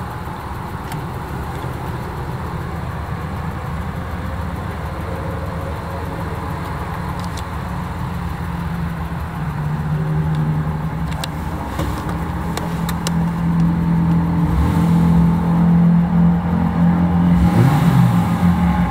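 The 2.2-litre inline-six engine of a 1957 Mercedes-Benz 220S running, growing louder about halfway through as the revs rise.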